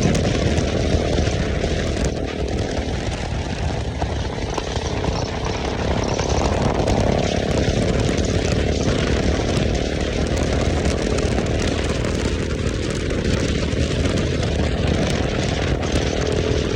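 KTM motorcycle with a freshly fitted aftermarket exhaust silencer, engine running steadily while under way.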